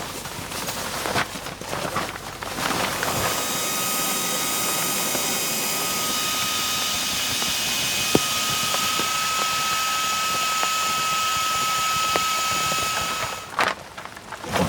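A steady machine whine with a loud hiss, several steady high tones over a rushing noise. It starts about three seconds in and cuts off about a second before the end, with scattered pattering clicks before and after it.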